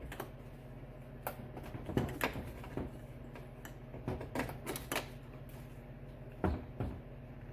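Irregular sharp clicks and knocks of plastic wiring-harness connectors being worked loose and unplugged by hand, over a steady low hum.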